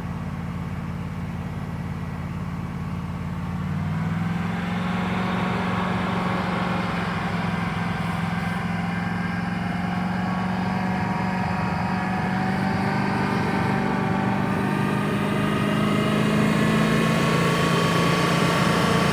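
Dodge Dakota engine running at raised revs with water misted into its intake to steam out carbon. The revs step up about four seconds in and hold there, climbing slightly again near the end.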